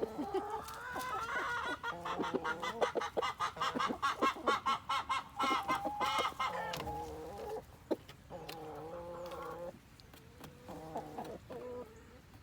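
Chickens clucking and squawking: a fast run of sharp, repeated calls begins about two seconds in and lasts several seconds, then gives way to lower, drawn-out clucks.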